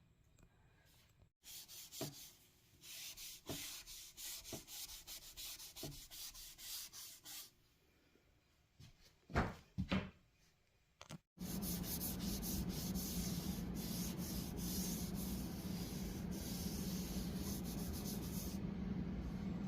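Rubbing strokes by hand across a 3/4-inch birch plywood panel, a quick run of strokes, then a few knocks. From about eleven seconds in, a steady hum with hiss takes over.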